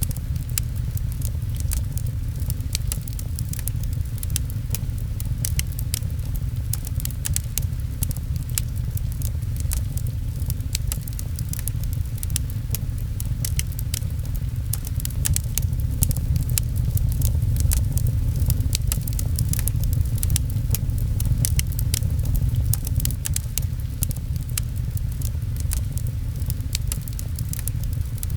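Fireplace crackling, a constant scatter of small sharp pops, over a steady low rumble of rain falling outside a window.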